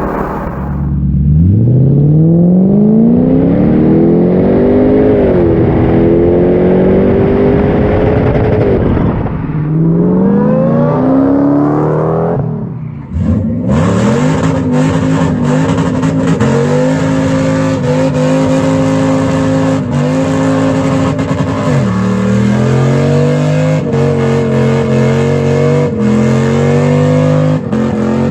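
Toyota/Lexus UZ-series V8 engine revving hard under acceleration: the pitch climbs steeply, holds, falls back and climbs again, drops sharply about 13 seconds in, then holds high with a few small steps down and back up.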